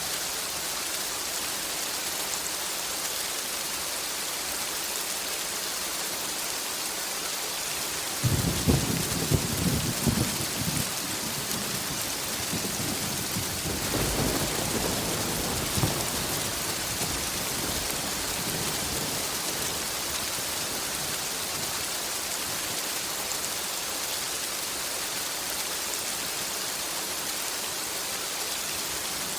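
Steady rain with thunder: a sudden crackling clap about eight seconds in, then a second, longer rumble a few seconds later that fades away.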